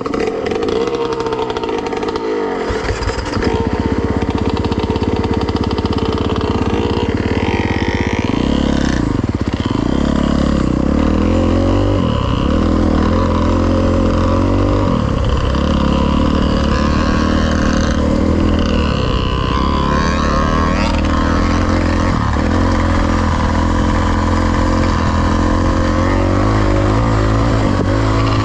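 Dirt bike engine heard close up, pulling away about three seconds in and then running hard along the trail, its pitch climbing and dropping sharply again and again as the rider works the throttle and shifts gears.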